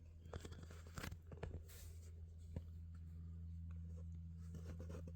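A few soft scratches, rustles and small clicks in the first three seconds, over a steady low hum.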